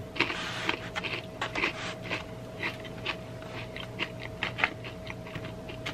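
Close-miked chewing of crunchy Flamin' Hot Cheetos: irregular sharp crunches and mouth clicks, denser in the first second.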